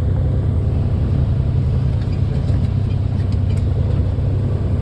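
Steady low rumble of a tractor-trailer's diesel engine and road noise, heard inside the cab while driving.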